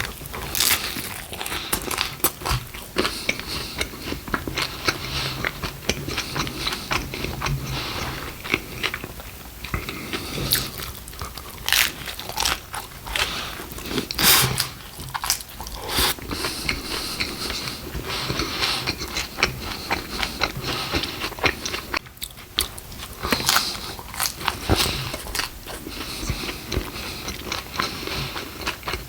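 A person eating close to the microphone, mukbang-style: repeated bites and chewing of Taco Bell food, with crisp crunches scattered throughout.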